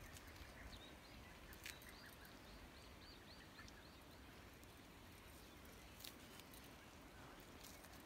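Near silence: faint outdoor ambience, with a quick run of faint high chirps from a small bird about two seconds in.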